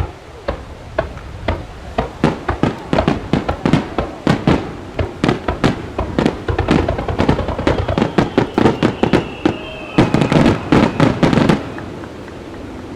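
Fireworks barrage: a rapid string of sharp bursts, several a second, with a faint falling whistle partway through. The volley stops suddenly near the end, leaving a fading rumble.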